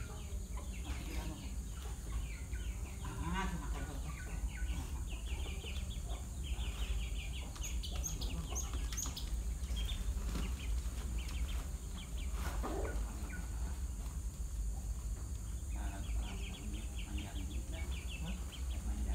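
Java sparrows (gelatik) chirping in quick runs of short calls, with a few higher chirps about halfway through, over a steady low hum.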